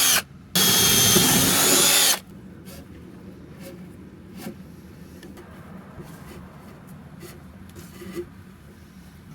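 Cordless drill running at full speed for about two seconds with a brief pause, then stopping. After that only faint clicks of handling remain.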